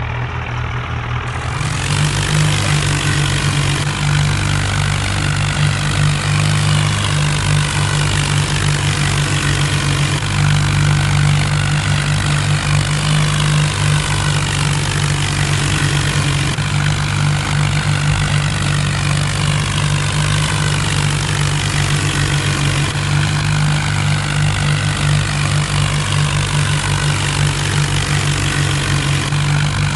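Diesel tractor engine running steadily, growing louder about a second and a half in.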